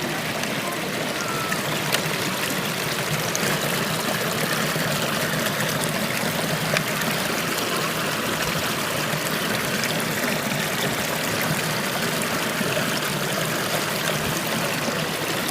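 Stream water running over rocks: a steady, even rush of flowing water.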